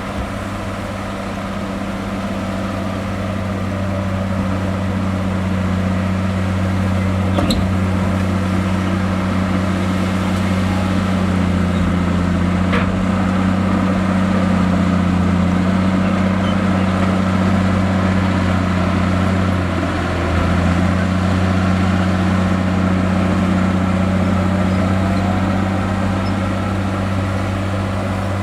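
Diesel engine of heavy earthmoving equipment running steadily with a deep, even hum that slowly grows louder over the first few seconds. There are a couple of faint clicks along the way.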